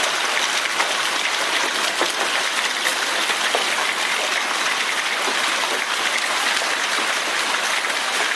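Hail and rain pelting down in a storm: a dense, steady patter of countless small impacts.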